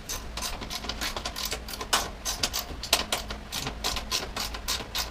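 Small hand ratchet clicking in quick, irregular runs as screws are backed out.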